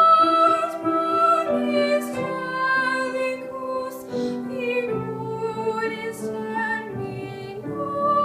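A young female voice singing a slow classical song in long held notes, with piano accompaniment.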